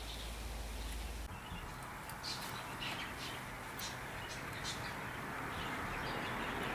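Small birds chirping in short high calls several times, over a steady outdoor background hiss that slowly grows louder toward the end.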